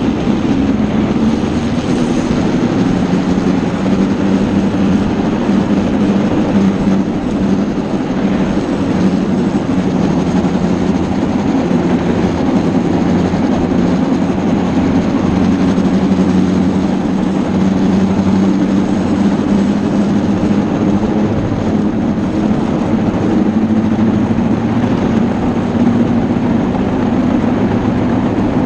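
A loud, steady engine-like drone that holds at an even pitch with little change.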